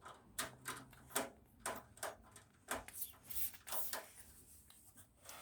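Screwdriver backing out screws from a computer case: a string of light, irregular clicks and ticks, roughly two a second.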